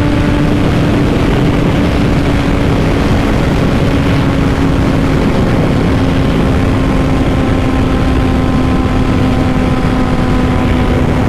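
Honda CBR600RR inline-four with a Two Brothers full exhaust running at a steady cruise, its note easing slowly lower.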